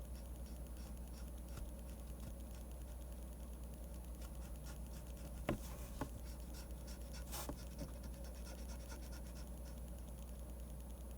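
Pen scratching on paper while drawing manga: faint strokes, two sharp ticks about halfway through and a longer scratchy stroke a little after, over a steady low hum.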